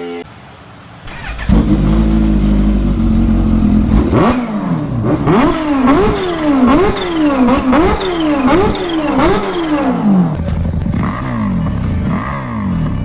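Superbike engine with a loud exhaust, cutting in abruptly and idling, then revved in a run of quick throttle blips that rise and fall in pitch about once every 0.7 s. Near the end a different, choppier exhaust note takes over with faster revs.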